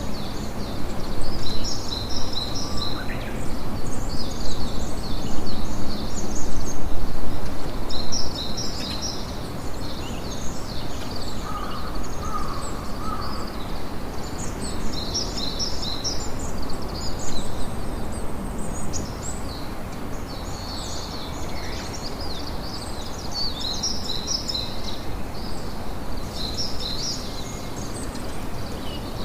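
Campfire crackling steadily, with small birds chirping in quick high bursts every few seconds.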